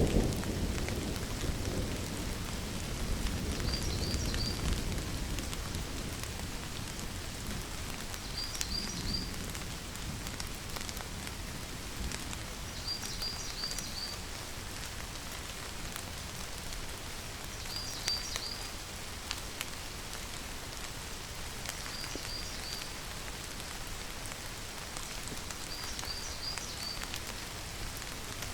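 Steady rain falling, with the tail of a low thunder rumble dying away over the first few seconds. A high chirp of three or four quick notes repeats about every four to five seconds.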